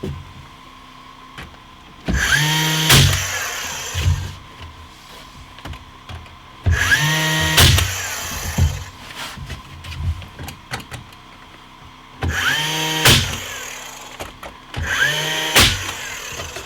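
Electric power saw started four times. Each time its motor whines up to speed, cuts, and runs down again.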